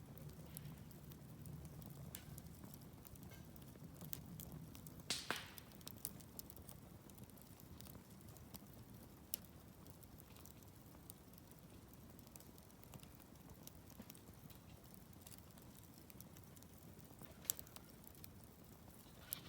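Wood campfire crackling, with scattered sharp pops over a faint steady low rumble of the flames; louder pops come about five seconds in and near the end.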